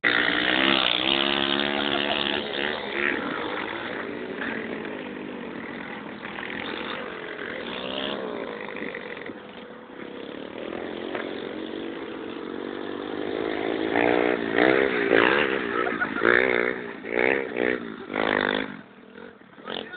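Motocross bike engines running and revving, the pitch rising and falling, with a run of quick blips of the throttle a few seconds before the end before the sound drops away.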